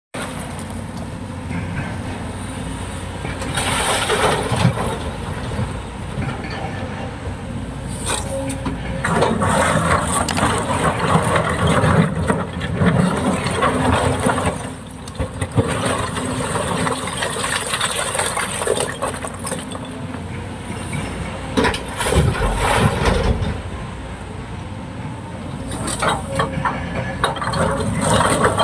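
Kobelco excavator's diesel engine running steadily under load, with repeated surges of louder, noisier working sound.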